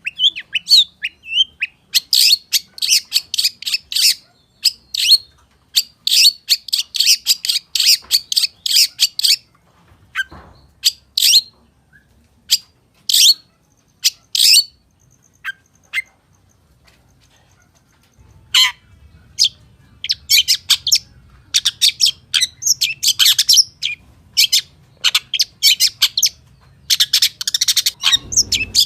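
Long-tailed shrike (cendet) singing a fast, varied song of high chirps and mimicked calls of other birds, in quick dense bursts, with a few seconds' lull past the middle before the rapid chirping resumes.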